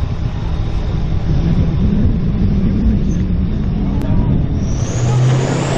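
A heavy engine running loudly and steadily, with a high whine rising in pitch from about four and a half seconds in.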